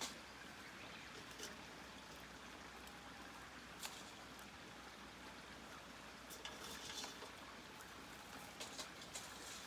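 Small campfire crackling faintly, with scattered sharp pops, a few close together in the second half, over a steady low hiss.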